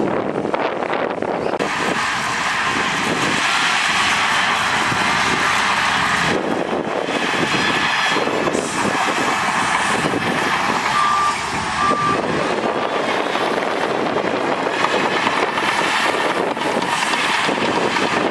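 Heavy earthmoving machinery with diesel engines running under load, with a reversing alarm beeping twice about two-thirds of the way through.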